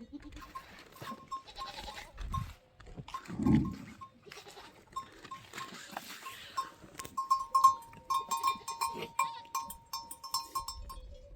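Goats bleating, the loudest call about three and a half seconds in, over a string of short high clinks that come thicker near the end.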